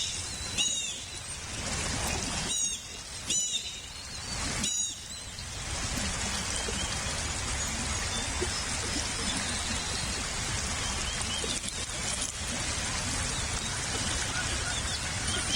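Bald eagle giving four short, high, chittering calls in the first five seconds, over a steady hiss.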